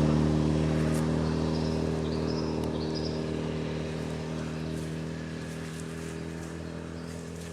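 An engine drones at a steady pitch, slowly fading away. A few short, high bird chirps sound over it about one to three seconds in.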